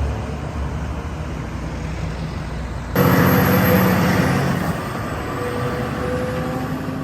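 Heavy vehicle engines running steadily. About three seconds in, the sound cuts suddenly to a louder, nearer engine, which then eases off.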